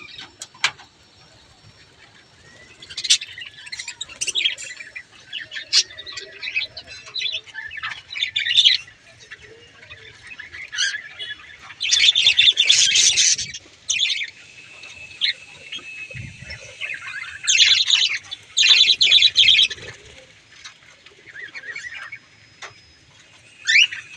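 Budgerigars (parakeets) chirping and chattering in bursts of short, high calls, with louder bouts of dense chatter about halfway through and again a little later.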